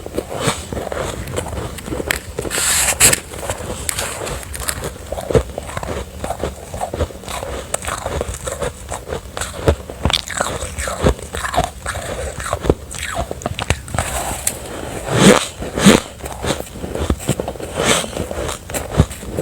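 Close-miked bites and chewing of refrozen soft ice, a run of irregular sandy crunches with a few louder bites and a slight squeak.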